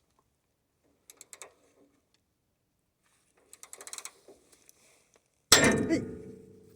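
Metal tools working on the dump truck's tie rod and steering linkage: faint clicks and scraping, then about five and a half seconds in one loud metallic clang that rings on and dies away over about a second.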